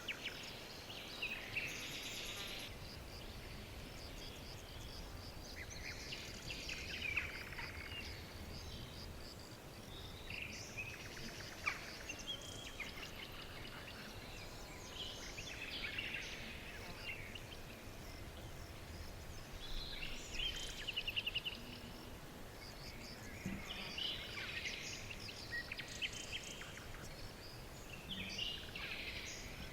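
Several songbirds singing and chirping in short, overlapping phrases, over a steady low rumble of background noise.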